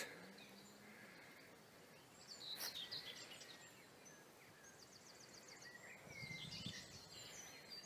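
Near silence with faint birdsong: scattered high chirps and a quick trill about five seconds in.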